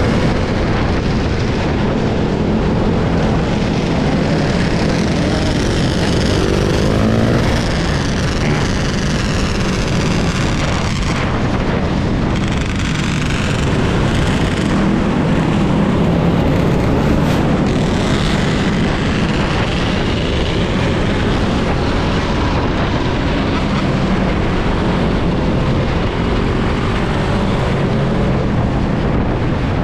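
Steady wind and road noise from riding an electric dirt bike, with the motor's high whine rising and falling now and then.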